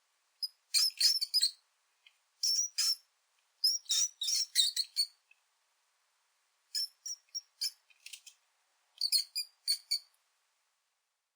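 Mouse squeak sound effects: clusters of short, high-pitched squeaks and chirps with pauses between them, stopping about ten seconds in.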